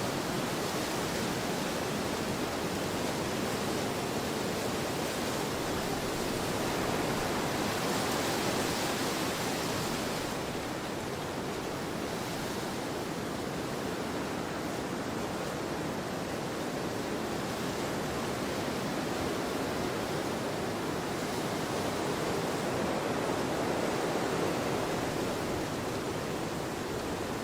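Wind blowing across an open field: a steady rushing that swells into a stronger gust about eight seconds in and again near the end.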